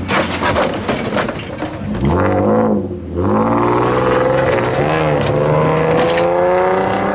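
A car engine revving and accelerating away with a loud exhaust. After a rough rumble, its pitch climbs, falls back about three seconds in, then rises steadily again.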